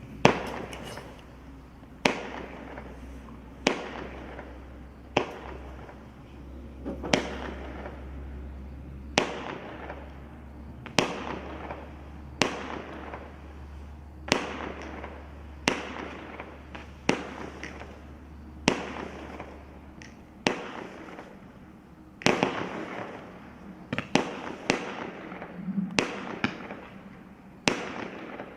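Evolution Fireworks Stardust firework firing a string of shots, a sharp bang about every one and a half to two seconds, each trailing off in a fading tail. The shots come closer together near the end.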